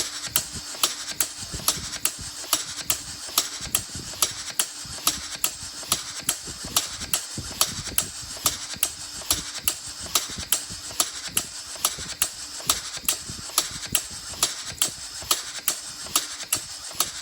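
Two-cylinder push-pull compressed air engine running, its valves clicking in an even rhythm of about two to three sharp clicks a second, over a faint steady hum.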